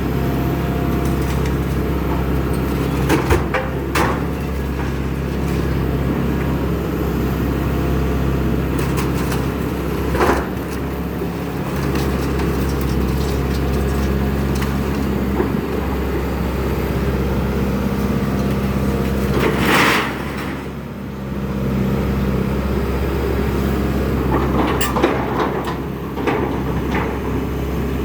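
Excavator's diesel engine running steadily, with scattered sharp knocks and cracks from the demolition work.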